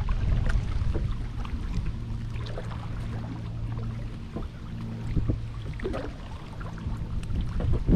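Small splashes and drips of water around a kayak on a lake, over a low wind rumble on the microphone. A faint steady hum sits under it for a few seconds in the middle.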